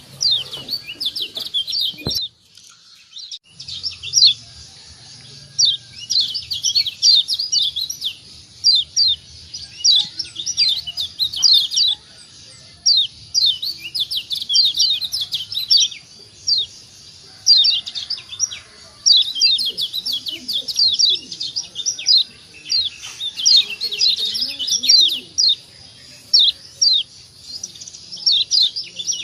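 Kecial kuning, a Lombok white-eye, giving fast runs of short, high 'ciak' chirps, each a quick downward sweep, in bursts with brief pauses and a short break about two seconds in. This is a 'ciak' lure call used to stir other white-eyes into calling. A faint steady high whine runs under it after the break.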